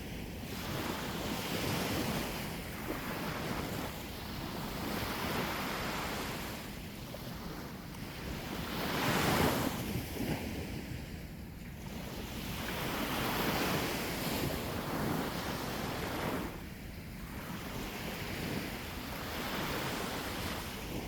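Sea waves washing onto the shore, the rush of water swelling and fading every few seconds and loudest about nine seconds in, with wind on the microphone.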